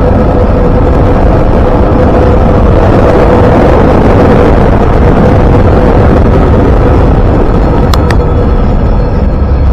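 A train passing close by: a loud, steady rumbling noise with a constant whine, swelling about midway. There is a brief sharp click near the end.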